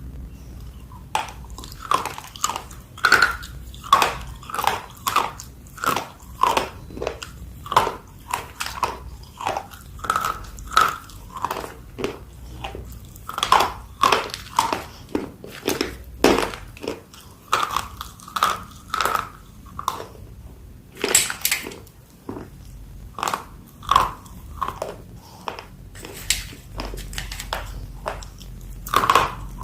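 Someone biting and chewing dry multani mitti (fuller's earth clay), a steady run of crisp crunches, one or two a second.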